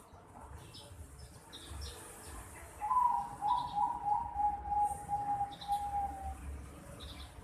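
Young zebra dove (Bangkok perkutut), about four and a half months old, calling: from about three seconds in, a few quick cooing notes run into one long held note that sinks slightly in pitch, lasting about three and a half seconds in all.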